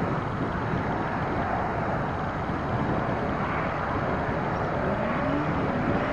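Motorcycle engine of a home-built dune buggy running as it drives, its pitch rising toward the end as it speeds up, heard through wind noise on the microphone.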